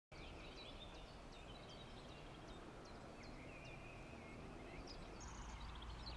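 Faint songbirds chirping, many short high chirps and one longer held call, over a low steady rumble that grows slightly louder about five seconds in.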